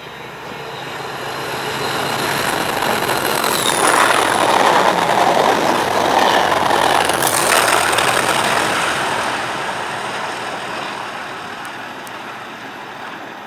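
Network Rail yellow test train running through a station at speed. The rushing rail noise builds for about four seconds, peaks as the coaches pass close by, then fades away. A high whine drops in pitch as the front goes past.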